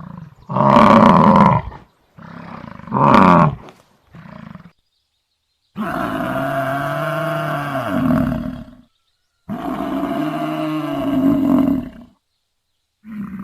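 Buffalo calling: three short calls, then two long, drawn-out bellows of about three seconds each, with pauses between them.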